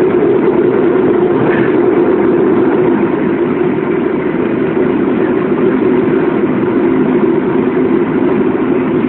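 Steady drone of a Boeing airliner's jet engines heard from inside the passenger cabin.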